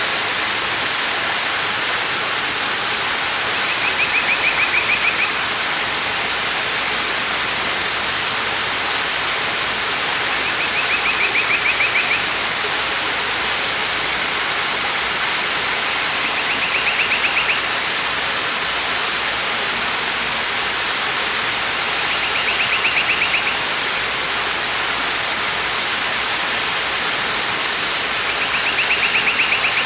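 Waterfall rushing steadily. About every six seconds a short, rapid high trill lasting a second or two sounds over it, five times.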